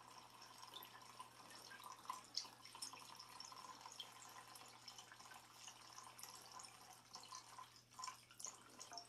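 Old kerosene trickling and dripping from a kerosene heater's fuel tank into an oil drain pan, faint, with scattered drips.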